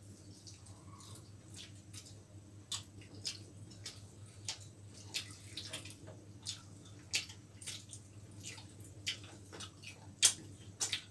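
Close-miked eating: irregular wet mouth smacks and chewing clicks as soft chilli chicken is eaten by hand, over a steady low hum.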